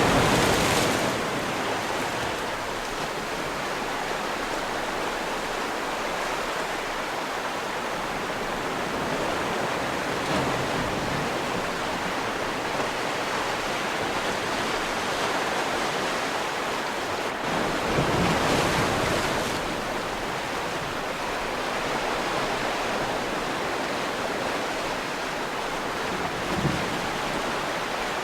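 Sea waves washing on the shore in a steady hiss, with a louder wave breaking about 18 seconds in.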